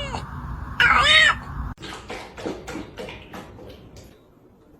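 A domestic cat meowing: the end of one meow at the start and a second short meow that rises and falls about a second in, followed by faint clicks that die away.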